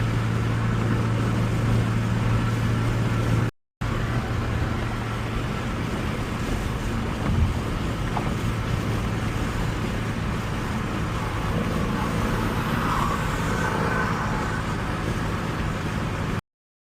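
A 2017 Ford Mustang's 3.7-litre V6, fitted with an MBRP exhaust and H-pipe, drones steadily at a light cruise with no revving, heard from the driver's seat. The sound drops out for a moment about three and a half seconds in. There is one short thump about seven seconds in.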